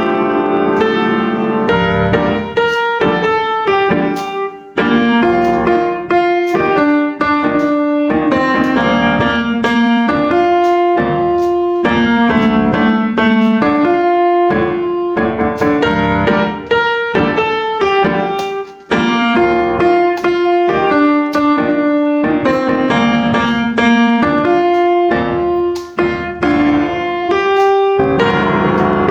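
Background piano music, a melody of struck notes in gentle phrases.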